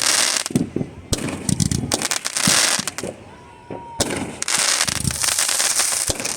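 Aerial fireworks bursting: three sharp bangs, at the start, about a second in and about four seconds in. Each bang is followed by a dense spell of crackling. A short whistling tone sounds just before the last bang.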